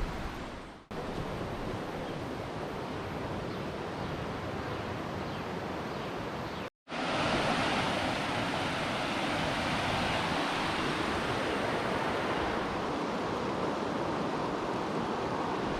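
River water rushing steadily, with two brief dropouts, a little louder after the second.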